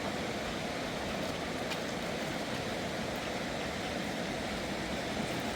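Steady rush of a fast, swollen river, an even noise with most of its weight low down.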